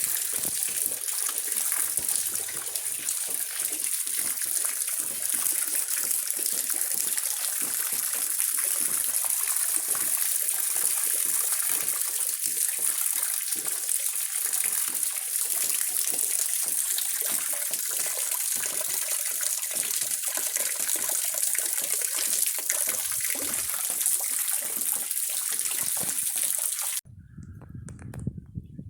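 Rain falling steadily, a dense hiss full of the patter of drops; it cuts off suddenly near the end.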